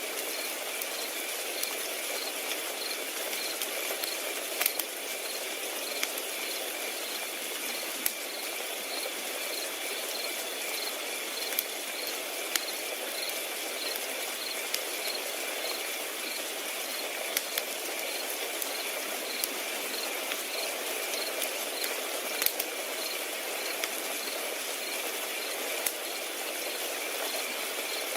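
Crickets chirring steadily, one high trill pulsing about twice a second, over a fire crackling with scattered sharp pops.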